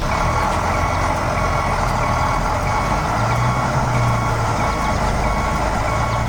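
Heavy vehicle engine running steadily, with a reversing alarm beeping over and over: a construction machine backing up.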